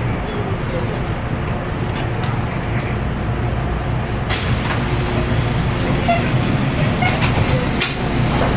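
Taipei Metro C301 train running: a steady low rumble with a few sharp clicks, about four and eight seconds in.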